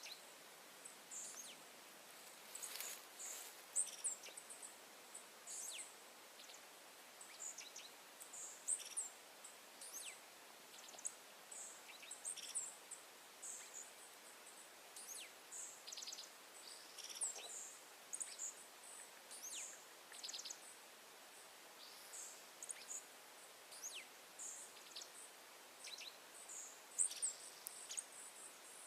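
Birds chirping: many short, high chirps and thin down-slurred whistles, faint and scattered, over a soft steady hiss.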